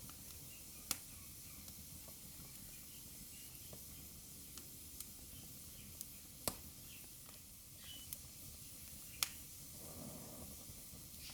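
Wood fire burning in a fireplace: a steady soft hiss with scattered crackles. Three sharp, louder pops come about a second in, midway and near the end, and a brief soft rush of flame follows the last one.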